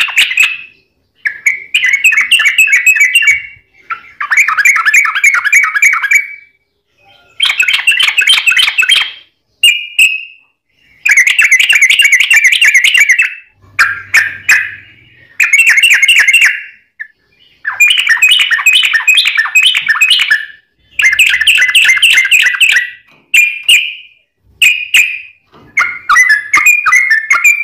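Yellow-vented bulbul (trucuk) singing fast, bubbly warbled phrases. About a dozen loud bursts follow one another with only brief pauses, each lasting from half a second to two and a half seconds.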